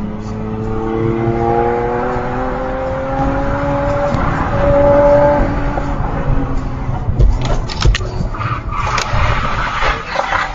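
A car engine revving up as the car accelerates, its pitch rising steadily for about five seconds. From about seven seconds in, a string of sharp knocks and clatter follows.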